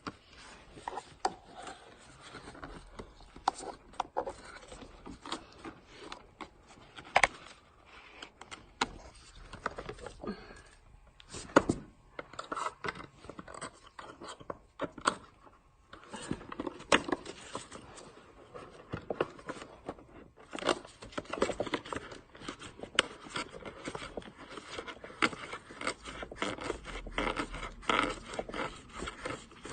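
Scraping and poking inside a clogged Bissell vacuum cleaner hose as packed dust and dirt are dug out, making irregular scrapes and clicks.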